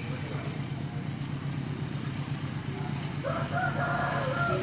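A rooster crowing once, a held call of about a second and a half near the end, over a steady low engine rumble.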